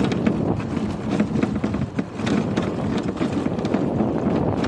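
A vehicle running along a winding road, its engine and road noise mixed with wind buffeting the microphone in uneven rustles and knocks.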